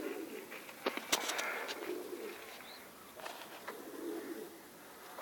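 Pigeons cooing: low, soft coos repeated about every two seconds, with a few sharp clicks about a second in.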